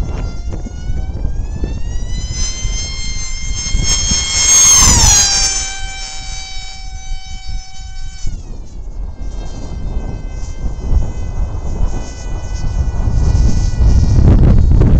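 Ritewing Lightning 36 flying wing's motor and propeller whining as it makes a fast pass. The pitch rises a little, then drops sharply as it goes by about five seconds in, holds lower and cuts off about eight seconds in. Heavy wind rumble on the microphone swells near the end.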